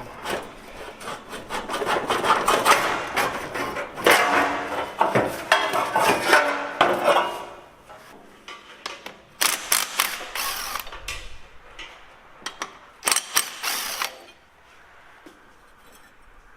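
A handheld power tool running in several bursts while work goes on in a tractor's engine bay: a long busy stretch in the first half, then two short bursts. It is most likely loosening bolts to get the engine out.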